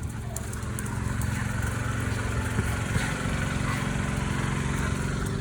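A motor running steadily, a low even hum with a few faint clicks over it.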